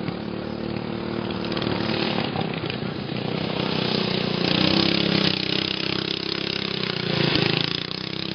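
Stock racing lawn mower engines running hard during a race, their pitch shifting. The sound grows louder around the middle and again near the end.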